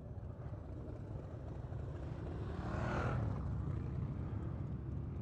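Motorcycles passing by: their engine noise swells to a peak about three seconds in and then fades away, over a steady low rumble.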